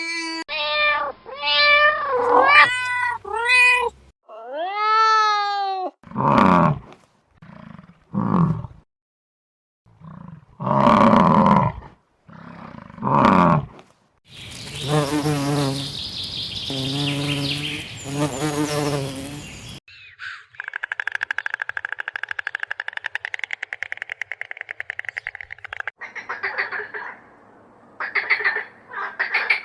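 A series of different animal calls in quick succession: high pitched cries first, then deep roars and harsh growling calls through the middle, then a rapid, buzzing trill, and short pulsed calls near the end.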